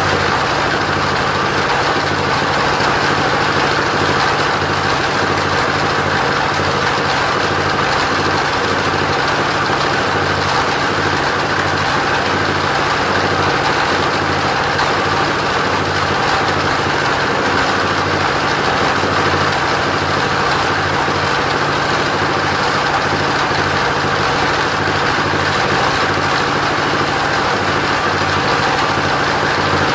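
Engine of a mobile sawmill running steadily at a constant speed, with no change in pitch or loudness.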